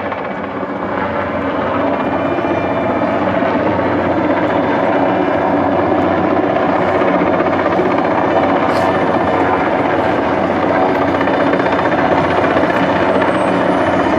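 Heavy-lift sky-crane helicopter hovering and working close by, its rotor and engine noise steady and loud. It grows louder over the first couple of seconds, then holds.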